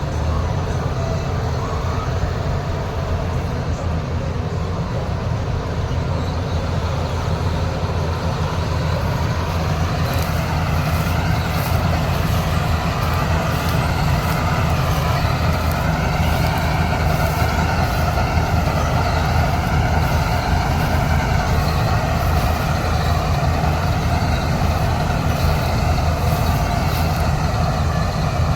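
Kartar 4000 combine harvester running steadily under load, a deep diesel drone with a whining machine tone that rises in and wavers from about ten seconds in.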